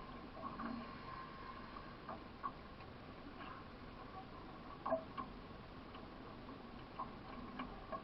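A few faint, irregular clicks and knocks over a low steady background.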